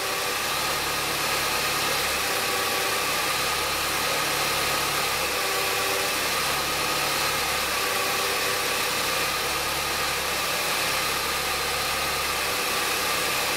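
Audi A5's 1.8 TFSI turbocharged four-cylinder petrol engine idling steadily, misfiring now and then on cylinder 4.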